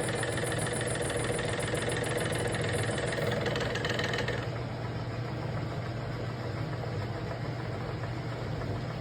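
Metal lathe running with a steady motor hum. A brighter, noisier layer over the hum stops about four and a half seconds in, while the machine keeps running.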